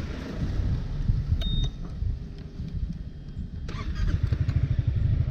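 A vehicle engine idling with a low, rhythmic pulse that grows stronger about two thirds of the way through. There is a short high electronic beep about a second and a half in, and a click just before the pulsing strengthens.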